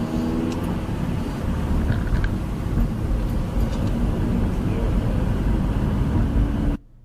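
Road vehicle engine and road noise, a steady low rumble that cuts off abruptly near the end.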